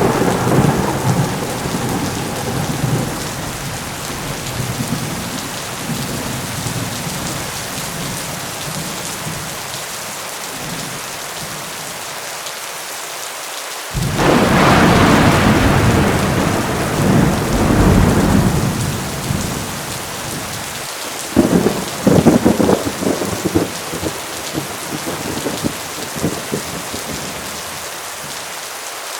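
Heavy rain falls steadily through a thunderstorm with rolling thunder. A rumble fades over the first few seconds, then a new peal breaks in suddenly about halfway and rumbles for several seconds. Near the end comes a run of sharp, crackling claps.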